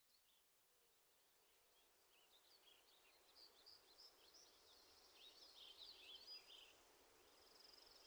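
Near silence, with faint birds chirping in the background.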